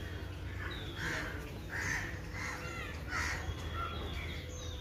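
A bird calling repeatedly outdoors, about five short harsh calls spaced less than a second apart, over a steady low rumble.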